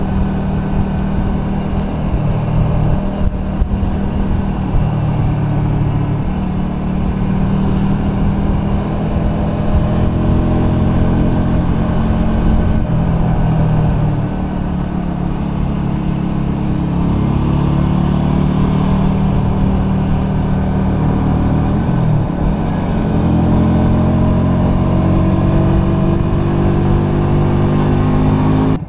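Honda Shadow 125's small V-twin engine running under way, heard onboard, with steady engine and road noise. Its pitch dips and then climbs again about two-thirds of the way through as the rider slows and picks up speed.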